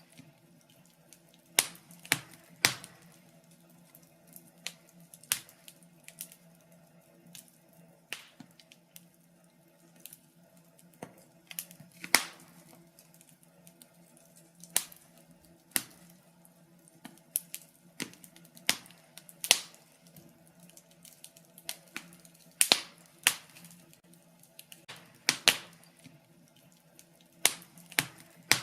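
Wood fire in a fireplace crackling: irregular sharp pops and snaps, a few every couple of seconds, some coming in quick pairs.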